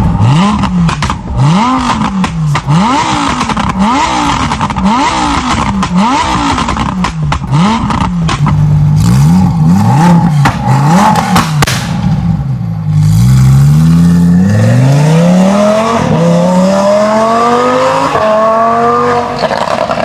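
Lamborghini Huracán EVO's V10 through a custom performance exhaust, blipped about once a second, then the revs climb in several long rising sweeps.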